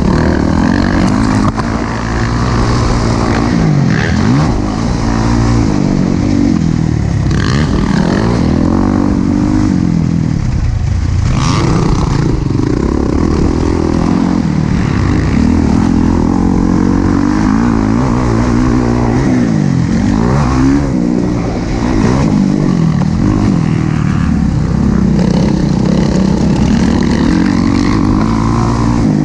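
Motocross dirt bike engine revving hard and backing off over and over, its pitch climbing and falling every few seconds as the throttle is worked around the track.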